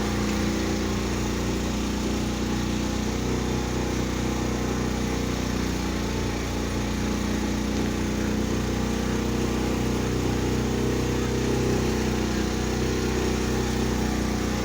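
The boat's engine running steadily at an even speed, a constant low drone with a haze of noise over it.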